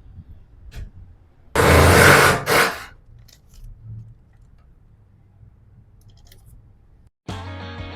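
A loud rasping scrape lasting about a second, followed by a shorter one, then faint handling noises; rock music with electric guitar cuts in near the end.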